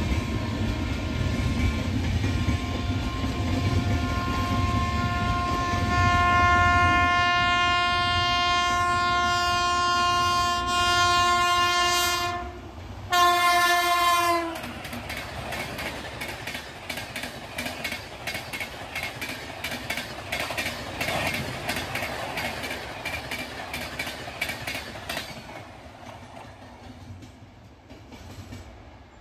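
Indian Railways electric locomotive horn sounding one long steady note for about ten seconds over the rumble of a fast train. After a short break a second horn blast bends down in pitch as the locomotive passes, then a rake of coaches clatters past at speed, its wheels clicking rapidly over the rail joints, and fades away.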